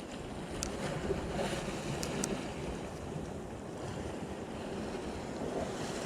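Sea washing against the rocks with wind buffeting the microphone, and a few light ticks.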